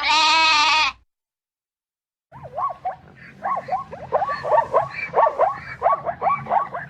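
A sheep bleats once, a wavering call about a second long. After a short pause, a different animal starts a quick, unbroken run of short calls that slide up and down in pitch.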